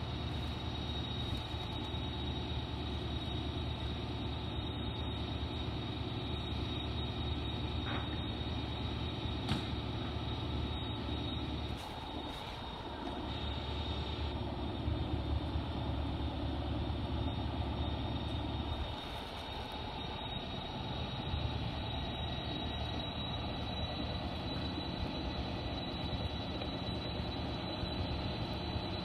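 Diesel locomotive idling at a station platform: a steady low engine rumble that dips twice, with a thin steady high-pitched whine alongside.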